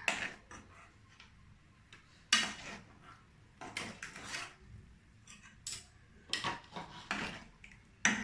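Metal kitchen utensils and pots clinking and scraping: a string of separate clinks spread over several seconds.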